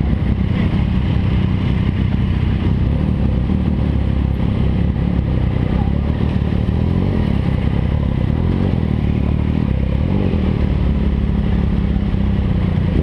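MV Agusta Brutale 800 motorcycle's three-cylinder engine running steadily through its aftermarket exhaust, a loud, even drone without big revs.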